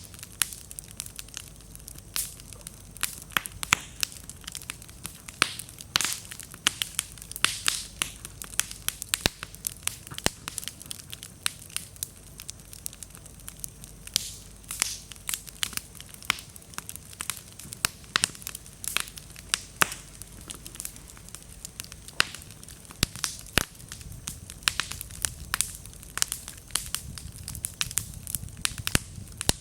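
Wood bonfire crackling, with frequent sharp pops and snaps at irregular intervals over a low steady burning hiss; the slightly damp firewood makes it pop and throw sparks.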